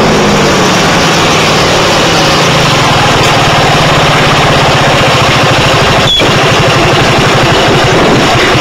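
Piaggio X9 125cc scooter's single-cylinder four-stroke engine, its pitch falling at the start and then running steadily at low revs under heavy hiss. A sharp click comes about six seconds in.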